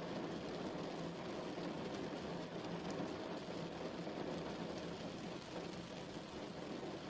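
Steady rainfall, an even hiss of rain on a surface.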